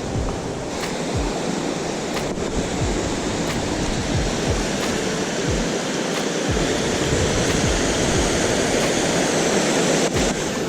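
Steady rush of water pouring over a small river waterfall, with occasional low thumps beneath it.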